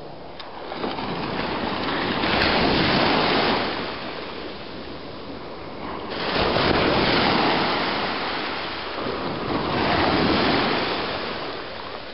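Ocean surf breaking and washing up the beach, in three swelling surges a few seconds apart.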